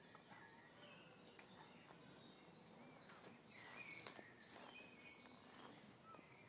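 Near silence with faint, scattered bird chirps and a few soft rustles about halfway through.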